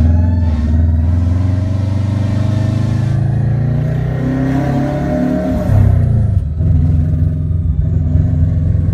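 Car engine running under way, pulling with a rising pitch for a couple of seconds, then dropping sharply about six seconds in, as at a gear change or lifting off, before running steady again.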